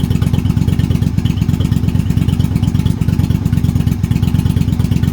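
2004 Yamaha V-Star 1100's air-cooled V-twin idling steadily with an even, rapid low pulse, its two carburetors balanced with a manometer.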